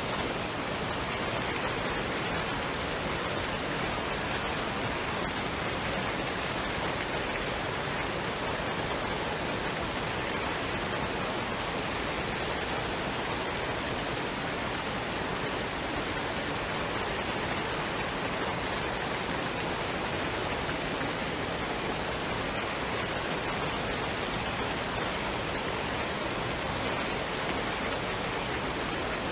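Waterfall and stream water rushing in a steady, even hiss with no breaks or changes.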